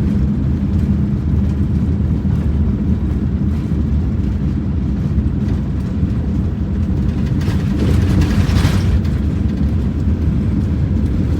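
A car driving on a gravel road: a steady low rumble of tyres on gravel and engine, with a brief rush of higher hiss about eight seconds in.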